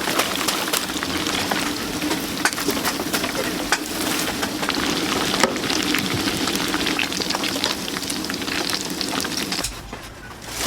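Food deep-frying in a vat of hot oil, a steady sizzle full of crackles and pops. It drops away abruptly about a second before the end.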